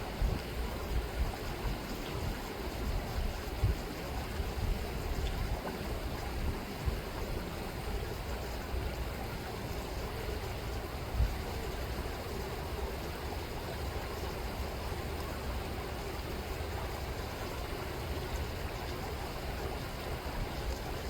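Chilliwack River water rippling and rushing steadily, with occasional brief low thumps.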